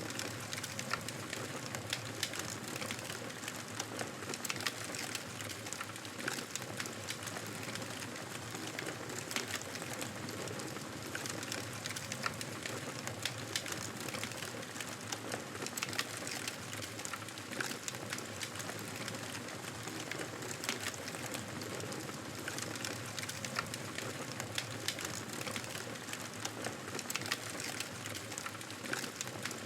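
Campfire burning, a steady hiss dotted with frequent sharp crackles and pops.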